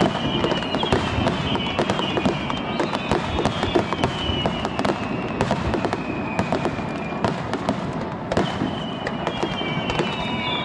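Aerial fireworks going off in quick succession, a dense run of cracks and bangs, with several high whistling tones that slowly fall in pitch.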